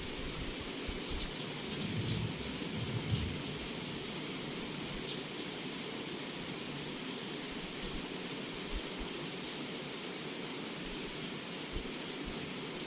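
Heavy rain pouring steadily, with individual drops ticking against the window. A low rumble of thunder swells about two to three seconds in.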